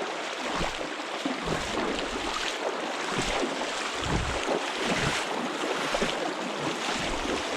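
Flowing water of a shallow stream current running steadily, with wind buffeting the microphone in irregular low rumbles.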